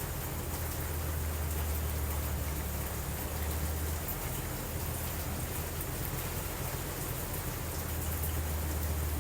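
Steady heavy rain falling, with a deep low rumble underneath that swells and fades.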